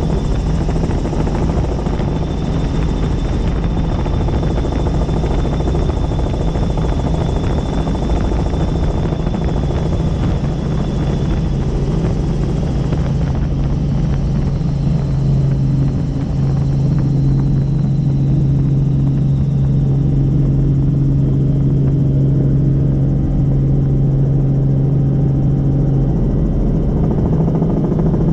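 Helicopter in flight, heard from on board: a steady drone of rotor and engine, with a faint high whine that fades out about halfway through.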